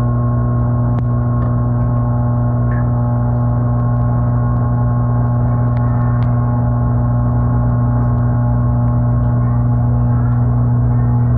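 GE dishwasher (GDT655SSJ0SS) running: a loud, steady motor hum with a strong low tone and a ladder of fainter overtones, with a few faint ticks.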